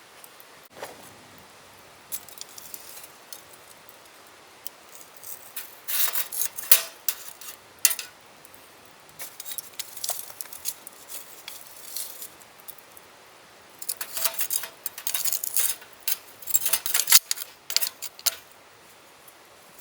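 Camp gear or utensils being handled: two spells of quick sharp clicks and rattles, about six seconds in and again about fourteen seconds in, with a few single ticks between.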